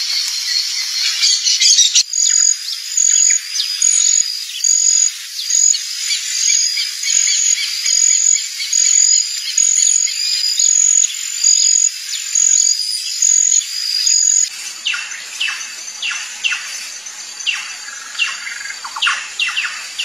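Birds calling: a high, short two-note call repeated evenly a little more than once a second, then from about three-quarters of the way in a run of sharp, falling calls.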